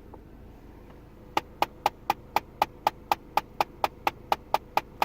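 Car's air-recirculation system tapping: sharp, even taps about four a second, starting about a second and a half in, set off by switching on air recirculation with the AC running. The owner calls it a mysterious ticking that taps for a couple of seconds and then goes back to normal.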